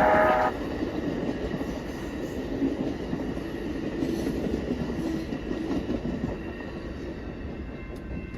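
Amtrak Empire Builder passenger train: its horn cuts off about half a second in, then the train keeps rumbling past on the rails, slowly fading.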